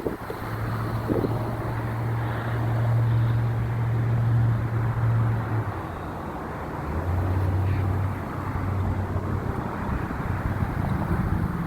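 Garbage truck engine running with a steady low hum, dropping in pitch about halfway through and rising again near the end, with wind on the microphone.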